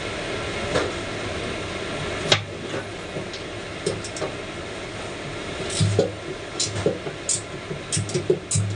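Scattered knocks and clinks of tools and metal parts being handled, the loudest about two seconds in and a cluster near the end, over a steady mechanical hum.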